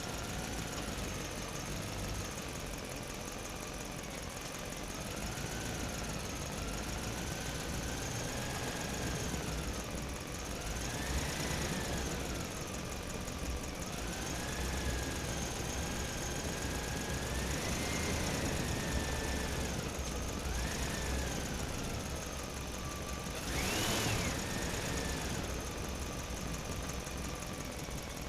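Small electric motor whining steadily, its pitch wandering up and down and rising in short surges, the highest near the end.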